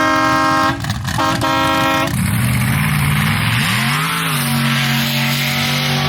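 Two horn blasts, each about a second long, then a vehicle engine revs up and settles into a steady drone.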